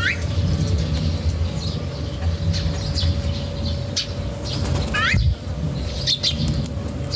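Small wild birds at a feeding spot, giving short upward-sweeping chirps twice (at the start and about five seconds in) and scattered brief high chirps, with wing flutters. Under them runs a low rumble and a faint steady hum.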